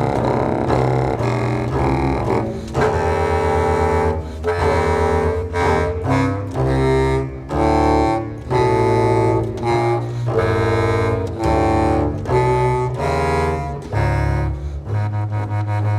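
Contemporary chamber music for clarinet and double bass: long, sustained low notes with rich overtones, from about two seconds in broken into separate held notes of around a second each. Near the end it settles into one steady low drone with a fast pulsing texture above it.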